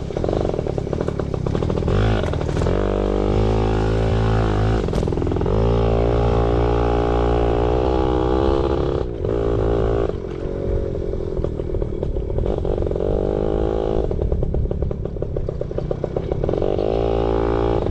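Yamaha PW80 pit bike's small two-stroke single-cylinder engine running under load while being ridden, the revs rising and falling repeatedly with the throttle, with some rattling from the bike.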